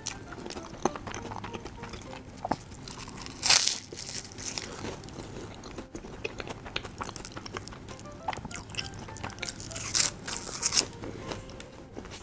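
Close-miked biting and chewing of a flaky-crusted egg tart: soft crackly pastry crunches, with two louder crisp bites, one a few seconds in and another past the middle.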